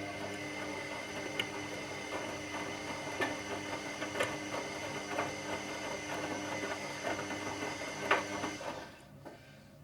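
Washing machine drum motor running with a steady whine and an occasional knock from the turning drum, for about nine seconds; it stops near the end, a pause in the wash cycle's turn-and-rest pattern.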